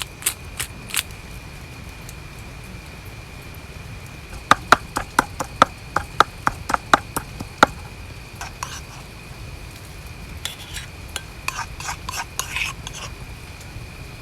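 Cooking utensils and dishes being handled: a quick run of about a dozen sharp clicks at roughly four a second, then lighter, scattered clinks. A faint steady high tone runs underneath.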